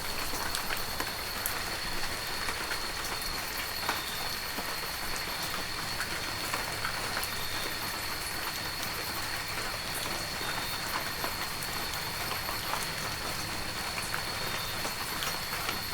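Heavy rain falling steadily, with many close, sharp drop hits over the dense hiss of the downpour. A thin, steady high-pitched tone runs underneath the whole time.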